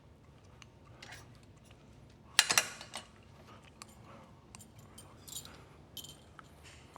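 Scattered light clicks, with a short clatter of sharp knocks about two and a half seconds in.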